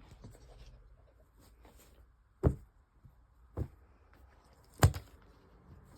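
Three short, sharp knocks about a second apart over quiet room background, the last one loudest.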